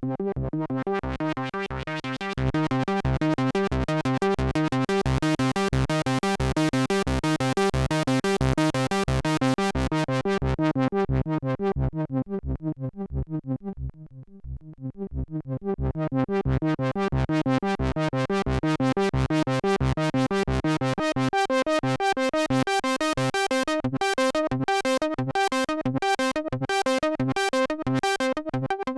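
Korg Minilogue analog synthesizer's arpeggiator playing a fast, evenly pulsing run of notes. The filter sweeps the tone brighter, closes down to a darker, quieter sound about halfway, then opens again. The lowest notes drop out near the end, when sharp bright pulses join the pattern.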